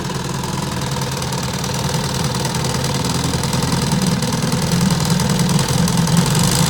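1968 Evinrude Sportwin 9.5 hp two-cylinder two-stroke outboard motor idling steadily, just after starting, on a freshly rebuilt carburettor.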